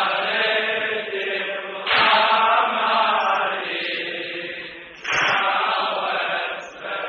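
Voices chanting together in a Husseini mourning elegy, in phrases that start afresh about two and five seconds in.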